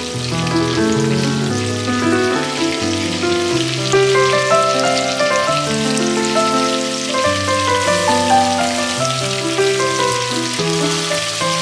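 Background music playing a melody of held notes over the steady sizzle of fish steaks shallow-frying in hot oil.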